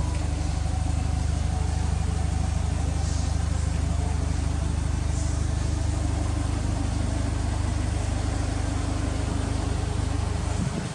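Subaru Impreza STI (GRB) turbocharged flat-four engine idling steadily through an HKS aftermarket muffler.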